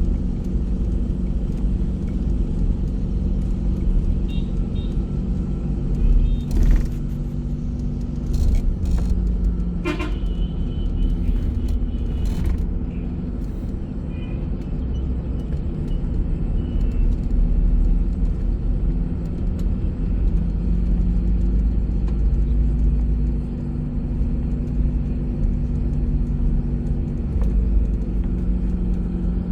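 A bus travelling on the road: a steady low engine drone and road rumble, with a few sharp knocks or rattles between about six and thirteen seconds in.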